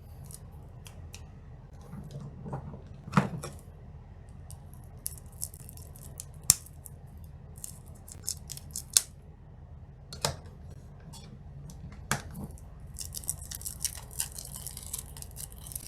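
Trading cards and their packaging being handled by hand: scattered light clicks and taps, with a run of crinkly rustling near the end.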